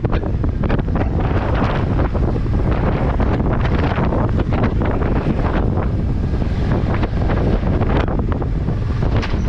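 Wind rushing over a helmet-mounted camera's microphone on a moving motorcycle: a loud, steady low rumble with frequent short gusty flutters.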